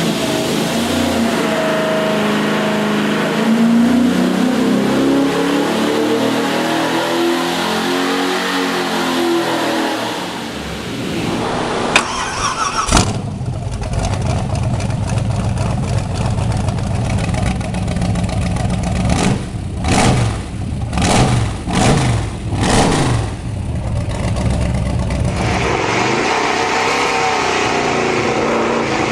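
1960s muscle-car V8 engines. First an engine accelerates, climbing in pitch again and again as it pulls through the gears. About twelve seconds in, an engine starts with a click and a loud catch, settles into a lumpy idle, and is blipped about five times in quick succession; near the end a car runs under steady power again.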